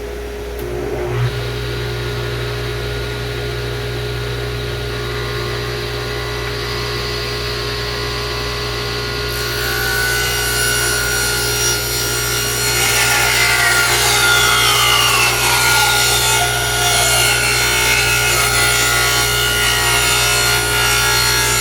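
Power saw running and ripping a strip of mahogany to width. The cut gets louder about halfway through.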